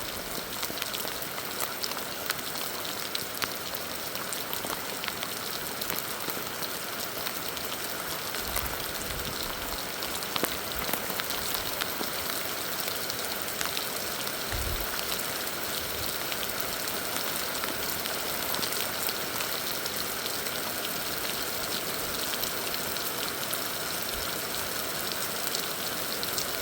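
Heavy rain falling steadily, a dense hiss full of individual drop ticks, with a couple of brief low bumps partway through.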